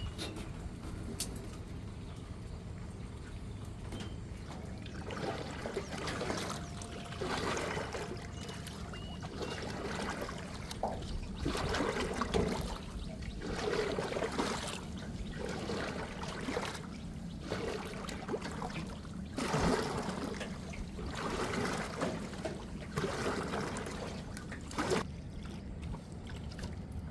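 A paddle stroking the water beside a small boat, a swish and splash about every second and a half over a steady low rumble. The strokes start about five seconds in.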